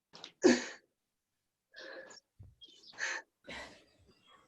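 Heavy, forceful breathing of people exerting themselves through dumbbell push presses: one loud puff of breath about half a second in, then several fainter ones.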